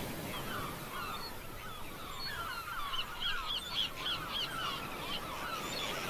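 A bird calling in a quick run of short, repeated notes, loudest about three to four seconds in.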